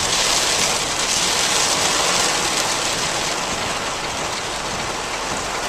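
Heavy rain beating steadily on a car, heard from inside the cabin.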